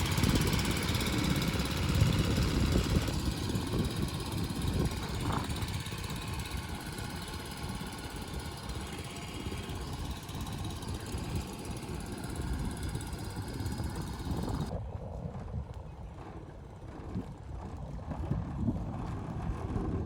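Lawnmower engine on a homemade boat outboard running steadily while it drives the small boat. It grows quieter through the middle and louder again near the end.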